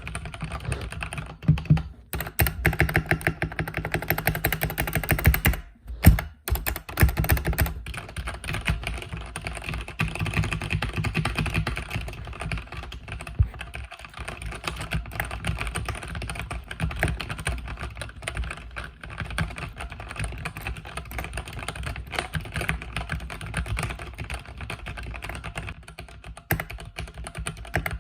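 Mechanical keyboard with red linear switches being typed on fast and steadily, a dense run of key clacks. There is a brief pause about six seconds in.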